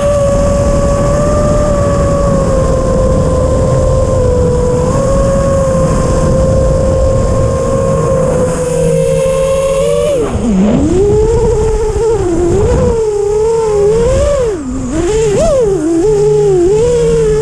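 6-inch FPV racing quadcopter's Hyperlite 2408.5 brushless motors and propellers whining, with a low rumble underneath. The pitch holds steady for about ten seconds, then swoops rapidly up and down as the throttle is blipped and cut through manoeuvres.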